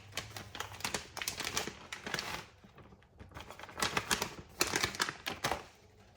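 Rapid clicking and rustling in two spells as the rest of the shredded cheese goes into a cheese sauce in a pot.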